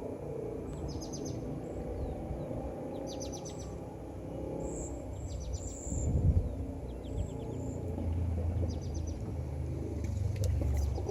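Birds chirping in short, rapid trills repeated every second or two, over a low rumble that swells about halfway through and again near the end.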